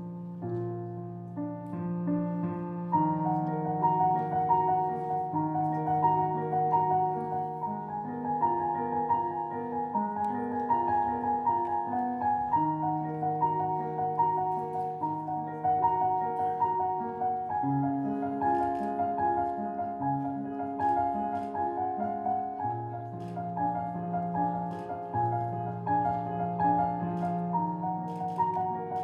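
Solo piano playing a gentle, steadily repeating figure of notes in the middle register over held bass notes.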